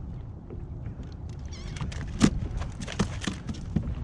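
Irregular clicks and knocks of tackle and a landed speckled trout being handled on a kayak while a deep-swallowed lure is worked free, the loudest knock a little past two seconds in. A brief high chirping about one and a half seconds in.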